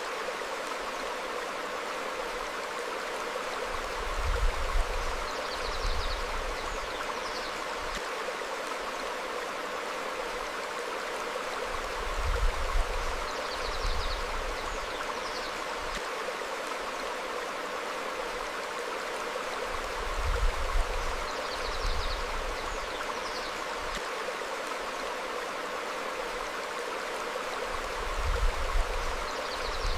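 Stream flowing over rocks, a steady rush of water. Short bird chirps come in pairs about every eight seconds, each time with a brief low rumble.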